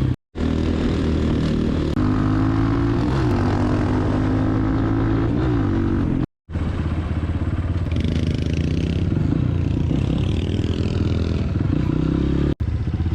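Dirt bike engine running on a rough trail, its pitch rising and falling as the throttle is worked, with clattering over the rocks. The sound cuts out abruptly twice for a moment.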